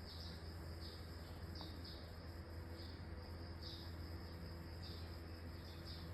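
Faint insect chirping, short high chirps about once a second, over a low steady hum.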